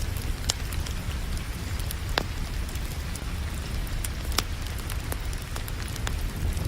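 Wood fire crackling, with scattered sharp pops, over a steady hiss of falling rain and a low rumble.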